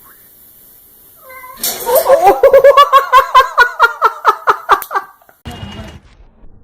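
A cat yowling in a loud, rapid run of short wavering calls, about four or five a second, for some three seconds. A short noisy burst follows near the end.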